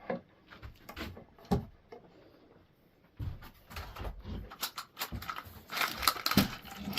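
Wooden board being set into metal parallel clamps: irregular knocks, clunks and scraping, with a brief lull about two seconds in and busier handling after it.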